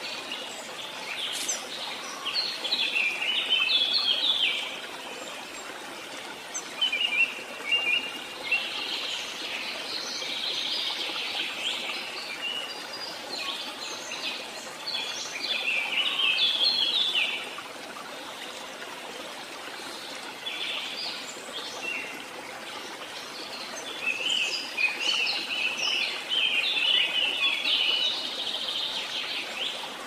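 Birds chirping and singing in repeated bursts of quick, high notes, over a steady background hiss.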